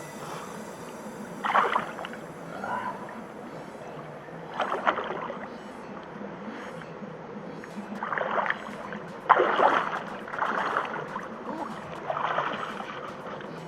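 Water splashing and sloshing in about six irregular bursts, from a person moving in a freshwater creek.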